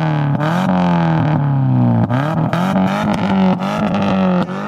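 Subaru Impreza 2.5 RS flat-four engine with its muffler deleted, revved several times; each rev jumps up quickly and falls back more slowly. The unmuffled exhaust is loud.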